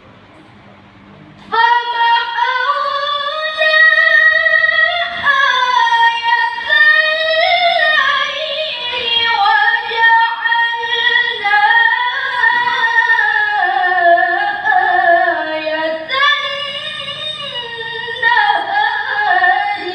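A girl's voice reciting the Quran in a slow, ornamented melodic chant. After a brief quiet pause, one long phrase begins about a second and a half in, its notes drawn out and wavering up and down.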